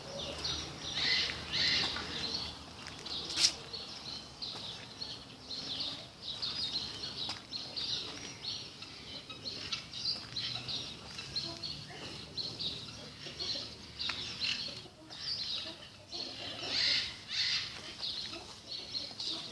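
A dense chorus of many small birds chirping continuously in short, high calls, with one sharp click about three and a half seconds in.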